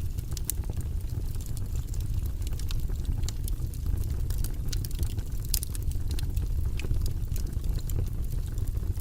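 Wood fire burning in a fireplace: a steady low rush of flame with frequent irregular crackles and pops, one sharper pop about five and a half seconds in.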